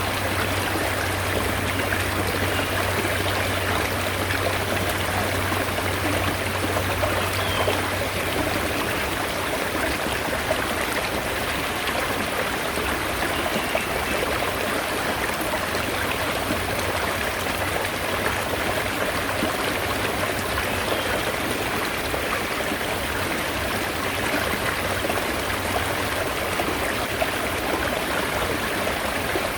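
Mountain stream of spring water running steadily, a continuous rushing and trickling.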